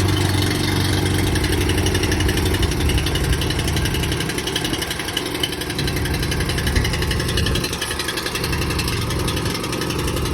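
Grillo walk-behind tractor's engine running steady and loud just after being started, its speed shifting a little around the middle.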